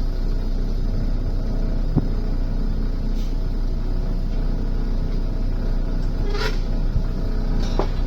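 River motor ship's diesel engine running steadily, a constant low rumble heard from aboard, with a couple of short faint sounds in the last few seconds.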